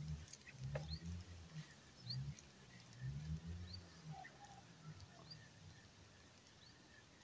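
Faint outdoor ambience with small birds giving short, high chirps about once a second. A low, wavering hum sits under them for the first five seconds, and a thin steady high tone comes in near the end.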